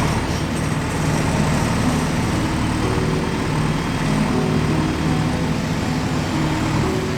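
Heavy diesel vehicle engine running steadily.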